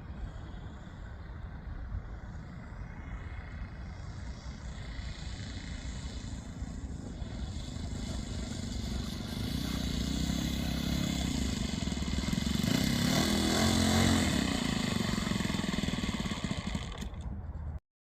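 Radio-controlled Pitts Special model biplane's engine droning in flight, growing louder as it comes closer and loudest about three-quarters of the way through, over a rumble of wind on the microphone. The sound cuts off abruptly near the end.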